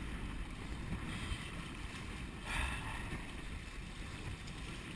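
Wind buffeting the microphone over water rushing along the hull of a sailing kayak under way, with a brief louder swish of water about two and a half seconds in.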